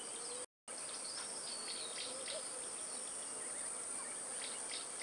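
Steady high insect trilling with scattered short bird chirps. The sound cuts out completely for an instant about half a second in.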